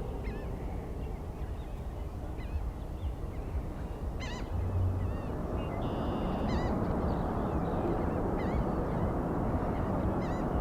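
Birds calling over and over with short honking calls, over a steady low rumble.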